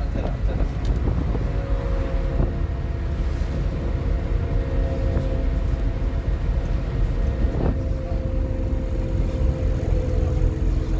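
Scania N230UD OmniCity double-decker bus's five-cylinder diesel engine running steadily under way, heard from on board with a low rumble and a steady drone. A single short knock comes about three quarters of the way through.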